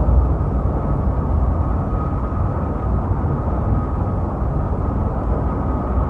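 Steady, deep engine-like rumble from a cartoon sound effect, most of it in the low end and dull with no high sounds.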